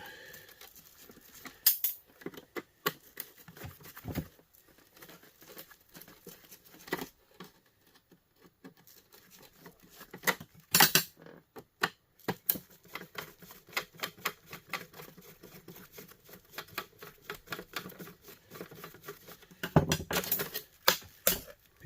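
Small Phillips screws being taken out of a small plastic electric heater's housing: scattered light clicks, ticks and rattles of screwdriver, screws and plastic parts. There is louder clattering about halfway through and again near the end.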